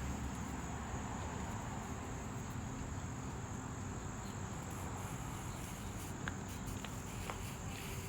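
Steady high-pitched chirring of crickets, with a few faint ticks near the end.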